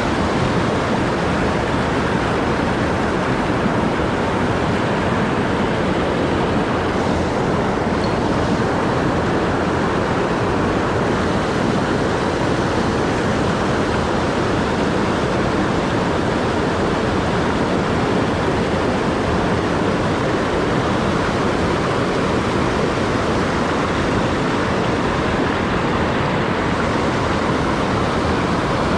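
Mountain stream rushing, a loud, steady wash of running water.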